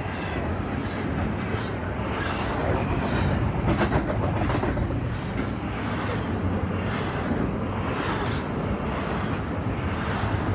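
A Canadian Pacific freight train's cars rolling past close by: a steady rumble of steel wheels on the rails, with faint clicks here and there.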